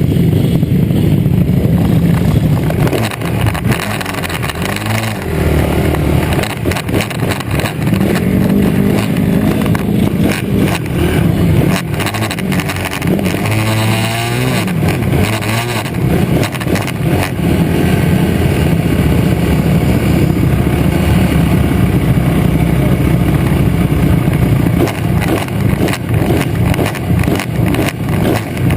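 Pit bike engines running hard in a race, the revs rising and falling again and again as the riders accelerate and back off.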